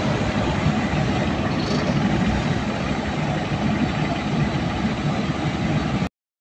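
Caterpillar C15 inline-six diesel engine of a generator set running steadily; the sound cuts off abruptly near the end.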